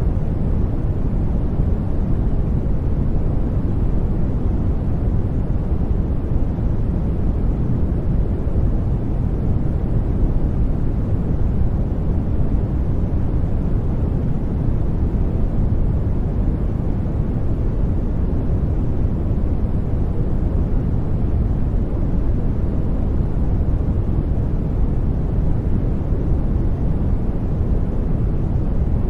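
Steady sleep-aid noise track, sold as white noise: an even, unchanging hiss that is deep-toned, with most of its weight low and little high hiss.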